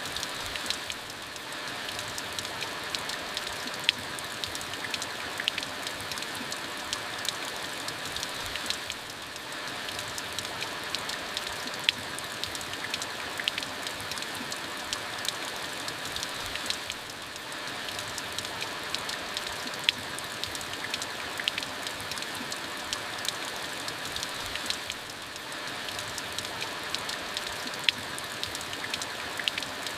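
Steady rain falling, an even hiss dotted with many sharp individual drop hits. The rain eases briefly about every eight seconds.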